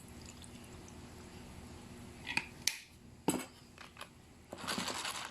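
Kitchen handling sounds: three sharp knocks and clinks of dishes and containers after about two seconds, then a short rustling noise near the end.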